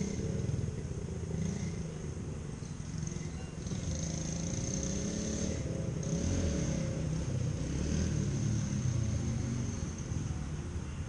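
A small off-road engine running with a low, uneven rumble.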